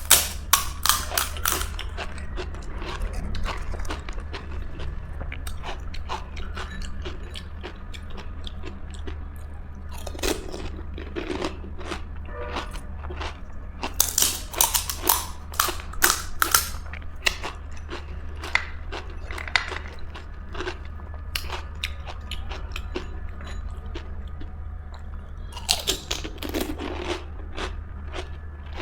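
Close-up crunching bites into crisp pani puri shells and chewing, coming in clusters: at the start, through the middle and again near the end, with quieter chewing between. A steady low hum runs underneath.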